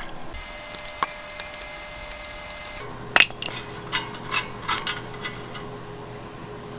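Small metal clicks and clinks of an adjustable wrench working the nipple of a wire-wheel spoke to loosen it, with one sharper clink about three seconds in. A low steady hum comes on near the same moment.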